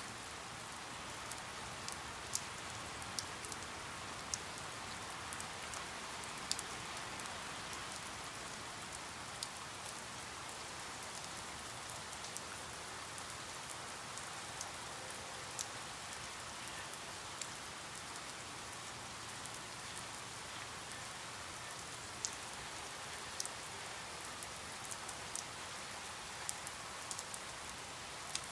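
Steady rain falling, an even hiss with scattered sharp drips of individual drops striking a surface.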